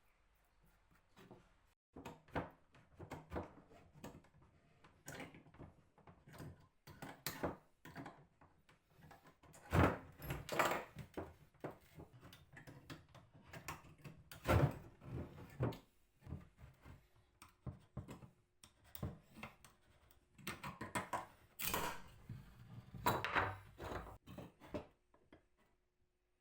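Irregular knocks, clicks and clatter of hand work on the table and its parts, a few louder thunks among them, stopping shortly before the end.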